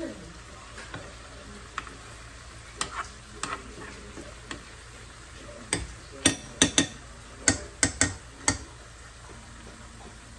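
Cutlery tapping and clicking against a plate: a few scattered taps, then a quick run of about eight sharp clicks in the second half.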